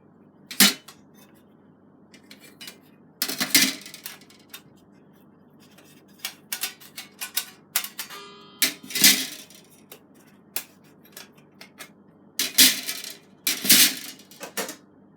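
Stainless-steel plates of a homemade fire pit being taken apart and stacked: irregular metal clanks and knocks, a dozen or so, with a brief ringing just before one of the loudest, about nine seconds in.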